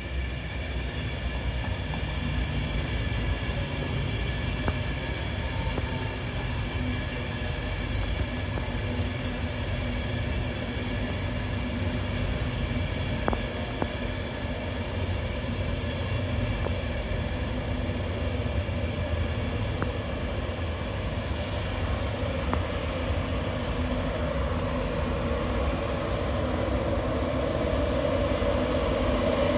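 An LNER InterCity 225 passenger train passing slowly, its Mark 4 coaches rumbling over the rails with a steady hum of several tones. The train grows louder near the end as its Class 91 electric locomotive at the rear comes level.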